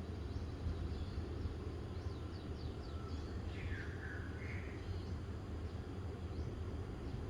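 Outdoor ambience of birds: scattered faint high chirps over a steady low rumble, with one louder swooping bird call, dipping then rising, about four seconds in.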